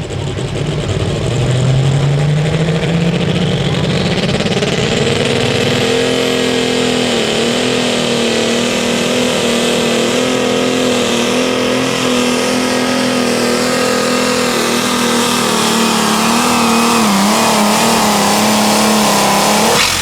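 Light limited super stock pulling tractor (the Alcoholic Deer, a John Deere) running flat out on a pull. The engine winds up over the first several seconds, with a high whine climbing above it, then holds near full throttle with slight wavers as it drags the sled. It shuts off abruptly at the end.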